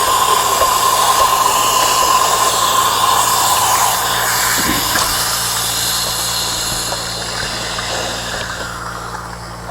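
Compressed air hissing and bubbling through vinegar inside a water heater tank to stir up and loosen lime scale: a steady rush with a faint steady whine that eases off over the last couple of seconds.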